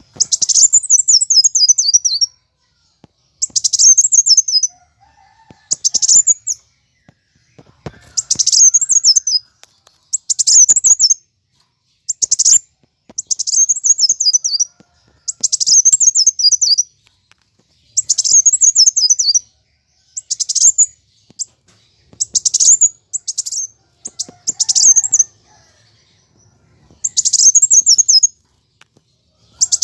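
Kolibri wulung (kowul) sunbird singing in excited fighting mode: bursts of rapid, high, twittering trills, each about a second long, repeated roughly every two seconds with short pauses between.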